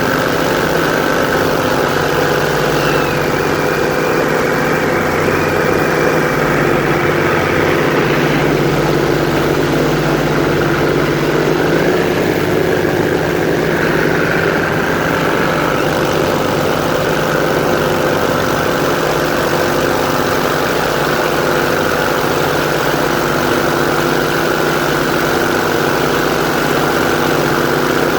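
Airboat's engine and propeller running steadily under way, a loud even drone with small shifts in pitch.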